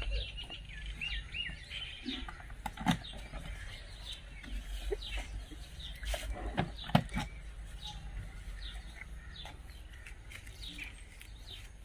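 Small birds chirping over and over, with a few sharp knocks and clicks, the loudest about three seconds in and again about seven seconds in.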